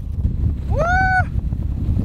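Storm wind buffeting the microphone as a loud low rumble, with one short high wordless cry about a second in that rises, holds and falls in pitch.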